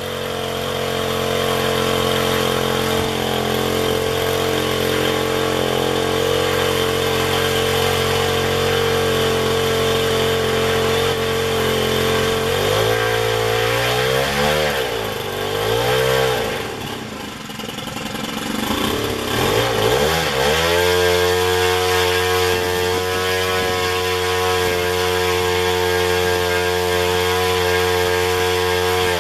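Zenoah GT80 twin-cylinder two-stroke engine on its stock muffler, swinging a 24x10 propeller at full throttle, about 5,600 RPM, while still being broken in. About 13 s in, the throttle is pulled back and blipped up and down for several seconds, then opened again to a steady full-power run, which is cut back right at the end.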